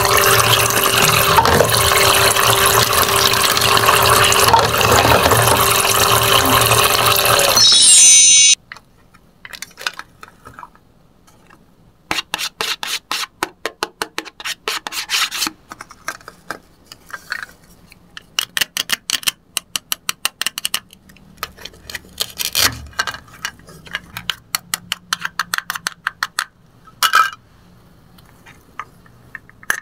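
A toy kitchen sink's pump-fed tap running, with water pouring and splashing over a steady motor hum; it cuts off abruptly about eight seconds in. After that, plastic toy fruit and vegetables are handled and sliced apart with a plastic toy knife on a plastic cutting board: rapid clusters of light clicks and taps.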